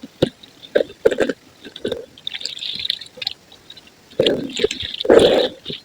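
Wet, soft white concrete crumbling and squishing, with scattered small cracks and drips. A short hiss comes about halfway through, and the crumbling gets louder and denser near the end.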